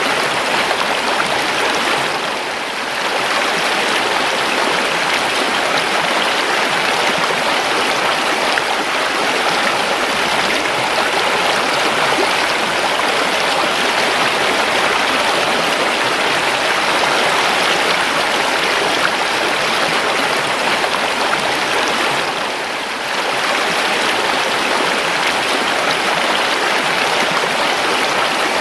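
A river stream running steadily, an even rushing and babbling of flowing water that dips briefly in level twice.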